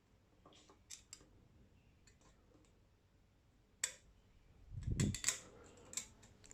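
Scattered sharp clicks and light knocks of metal espresso machine parts being handled, with a low thump and a cluster of clicks near the end.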